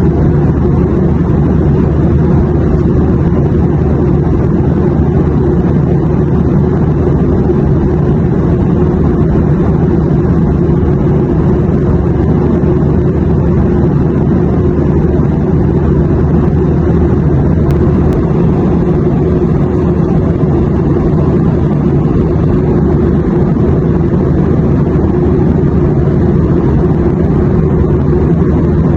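Steady airplane noise used as white noise: a loud, even, low rumble with a few faint steady hums, unchanging throughout.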